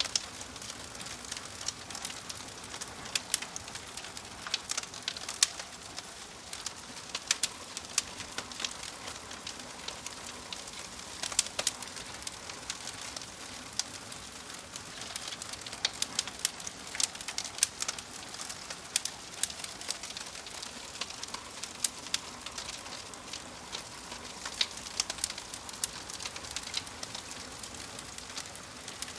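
Wood fire in a fireplace crackling, with frequent sharp, irregular pops over a steady hiss.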